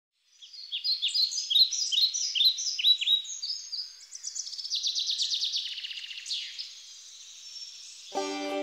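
Birdsong: repeated short chirps that slide downward in pitch, then a fast trill and fainter calls. Banjo music comes in near the end.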